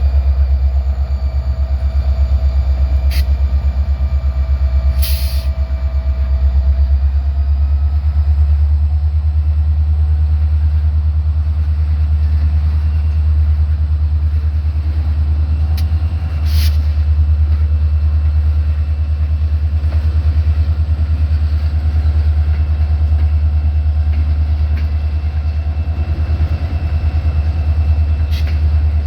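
Freight train pulling cars slowly: a deep, steady, pulsing rumble from the locomotive, with faint squealing tones and a few short sharp clanks.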